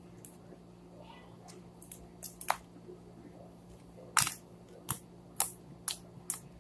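A series of about eight sharp, irregular clicks and snaps over a low steady hum, the loudest about four seconds in.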